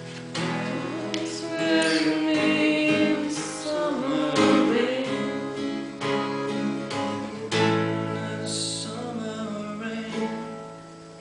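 Acoustic guitar strumming chords, part of a song being worked out, fading near the end.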